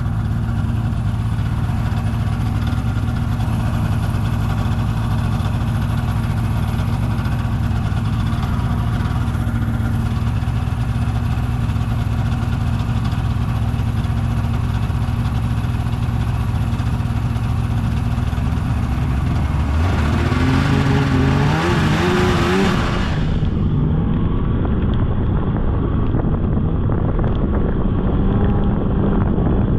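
Polaris snowmobile engine running steadily, then revving up with a rising pitch about twenty seconds in before it settles back.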